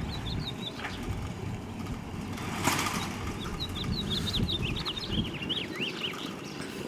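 A small bird twittering, with quick high chirps at the start and a longer run of them in the second half, over a steady low rumble.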